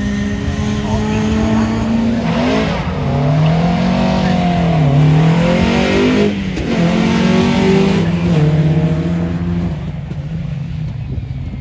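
Rally car engine driven hard on a race circuit, revs rising and falling repeatedly with lifts and gear changes. Loud through the middle, getting quieter near the end.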